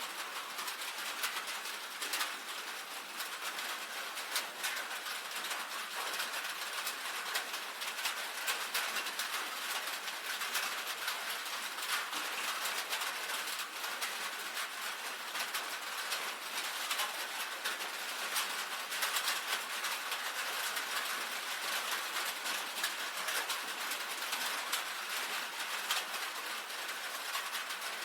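Rain falling on a tin roof: a steady, dense patter of many small drop ticks on the metal over an even hiss of rainfall.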